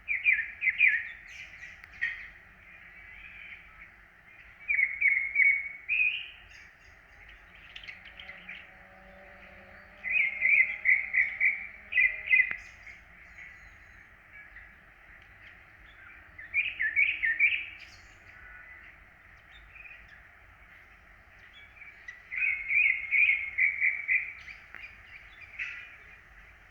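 A bird calling in bouts of quick repeated notes, about five bouts a few seconds apart, each lasting one to two seconds.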